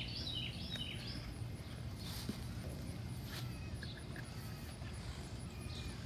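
Small bird chirping in a quick run of short, high notes for about the first second, with a few fainter chirps later, over a steady low background rumble.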